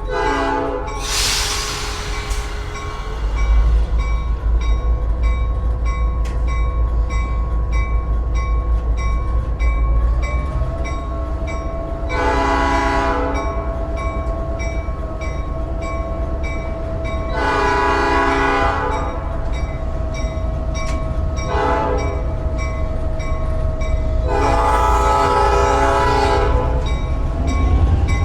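Horn of a GP38-2 diesel locomotive heard from inside the cab: a short blast at the very start, then later long, long, short, long blasts, the grade-crossing signal. Underneath, the locomotive's EMD 16-645 two-stroke diesel runs steadily and grows louder a few seconds in as it takes load, with a brief hiss of air just before.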